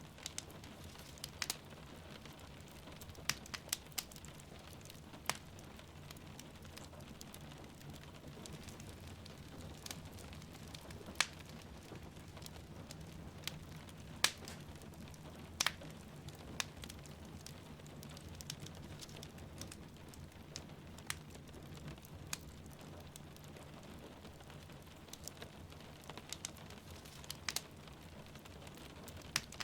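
Wood fire crackling in a fireplace, with irregular sharp pops and snaps, over a steady low rumble and soft hiss of rain.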